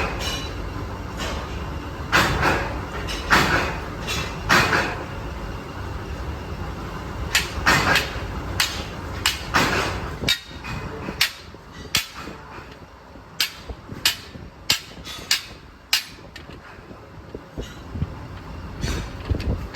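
Irregular clanks and strikes of heavy steel pieces, over a low mechanical rumble. The strikes become quicker and crisper, about two a second, past the middle.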